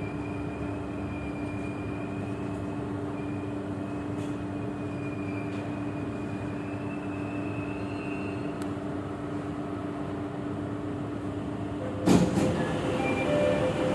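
Inside an MRT Jakarta metro train: a steady running hum with a faint high whine that rises slightly and fades out about two-thirds of the way through. Near the end comes a sudden loud knock, followed by short repeated beeps.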